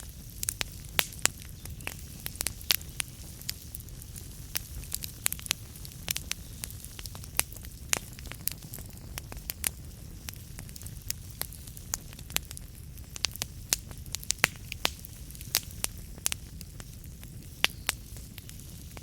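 Wood fire burning in a fireplace: logs crackling and popping in frequent irregular sharp snaps over a steady low rumble of the flames.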